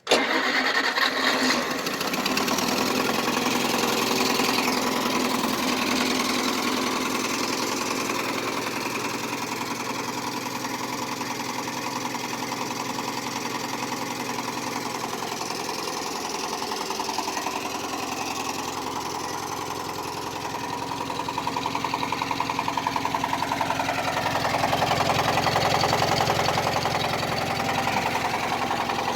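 International Harvester Cub tractor's small four-cylinder engine starting from cold and running steadily, getting louder about 22 seconds in as it warms up.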